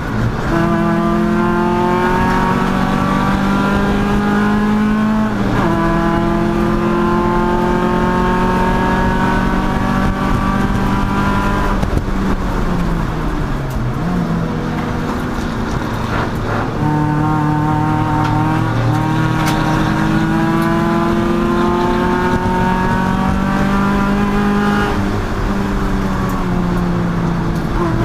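Race car engine under hard acceleration, its pitch climbing steadily through each gear and dropping sharply at upshifts about five seconds in and again near the end. Around the middle the engine note falls away as the car slows, then climbs again as it pulls out.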